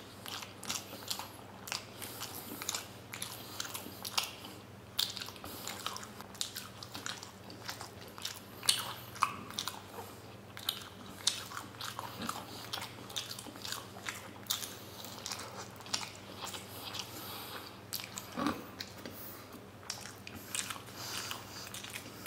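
Close-miked chewing of steamed paneer momos: irregular wet mouth smacks and clicks, a few a second.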